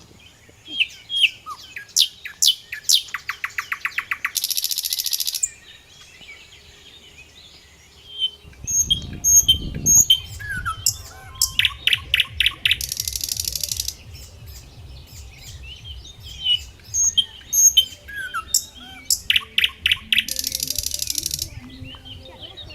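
A songbird repeating the same song phrase three times, about every eight seconds: a run of sharp high chirps, a fast trill, then a buzzy high note lasting about a second. A low rumble comes in about eight seconds in and stays under the song.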